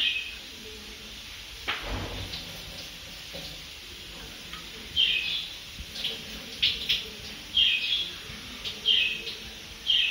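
A bird chirping, about half a dozen short, high, down-sweeping calls, most of them in the second half. A single knock comes about two seconds in, over a steady faint hiss.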